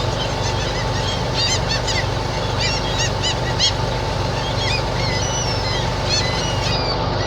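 A flock of birds calling with many short, high chirps in quick succession, over a steady low hum.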